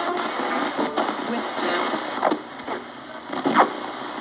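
Steady hiss of static with a few short crackling sweeps, the loudest about two seconds and three and a half seconds in.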